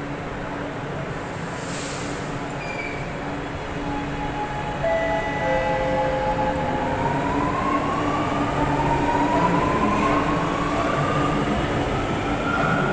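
Chennai Metro train's traction motors whining steadily higher in pitch as the train pulls away and gathers speed, over a steady low hum and the rumble of its running, which grows louder about five seconds in.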